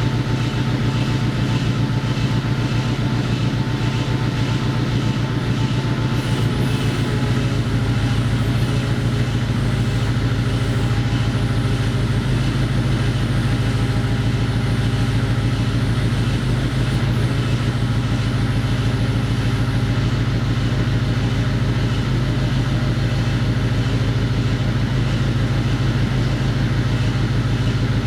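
An engine idling steadily, with a constant low hum and a rapid, even pulse.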